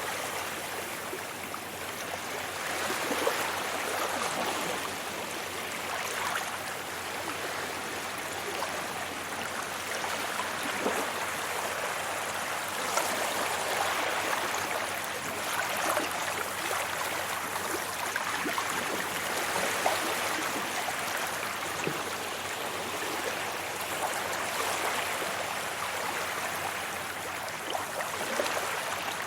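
Sea waves washing onto a beach: a steady rush of surf with gentle rises and falls in loudness.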